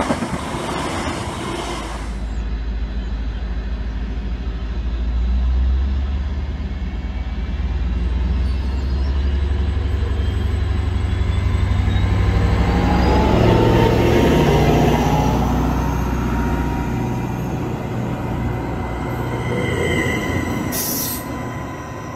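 Greater Anglia Class 755 bi-mode train running on its diesel engines along the platform, a steady low engine hum under wheel and rail noise, with a thin rising squeal about halfway through and loudest as it passes. In the first two seconds, before an abrupt cut, the tail of another passing train is heard.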